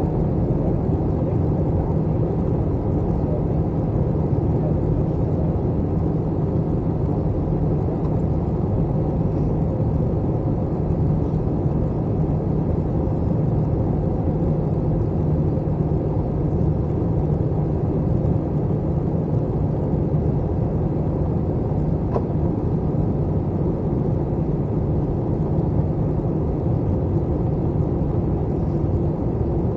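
Steady cabin drone of an Airbus A321 airliner, engine hum and airflow heard from inside the cabin by a window seat, with a constant low hum and no breaks. A further low tone joins in for the last few seconds.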